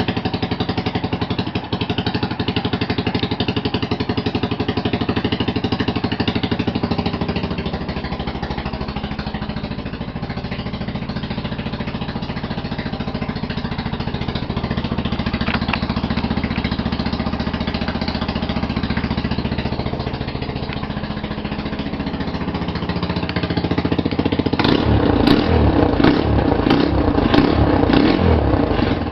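2006 United Motors 250cc cruiser motorcycle engine running steadily just after a cold start, with the choke just pushed off. Near the end it turns louder and choppier, with a rapid pulsing beat.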